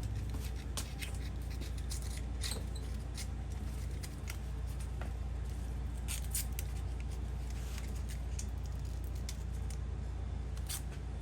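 Masking tape being pulled off a small roll, torn and pressed onto the engine block: scattered short crackles and ticks over a steady low hum.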